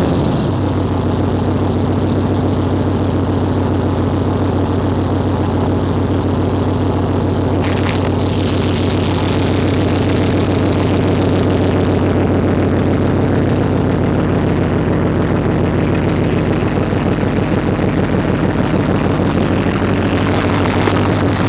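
2004 Dodge Ram pickup's engine, fitted with an aftermarket 260 camshaft and a new exhaust, idling steadily just after being started, with a regular pulsing beat through the exhaust.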